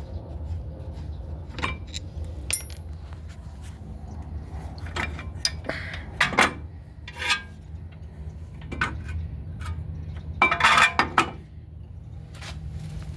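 Metal clinks and clatter of hand tools and brake parts being handled while a car's brake caliper and its mounting bracket are unbolted, with a loud burst of clattering near the end. A steady low hum runs underneath.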